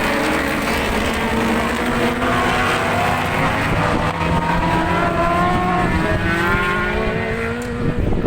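A pack of superbike racing motorcycles at full throttle, several engines at once, their pitches rising and falling through gear changes as they race past. The engine sound thins out near the end.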